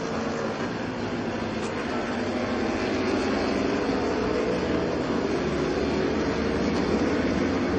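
Motorcycle engines running, a steady drone with slight rises in pitch.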